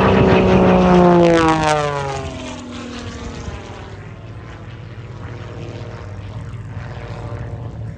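Extra 330 aerobatic monoplane making a loud pass, its piston engine and propeller note dropping in pitch as it goes by about a second in, then fading to a steady distant drone.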